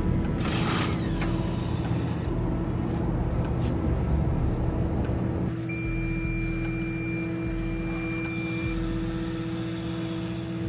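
A car running, heard as a steady hum with even low engine tones. About halfway through, a high steady electronic beep sounds for about three seconds and then cuts off.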